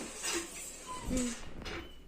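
Light kitchen clatter of utensils and dishes, with a short faint voice about a second in.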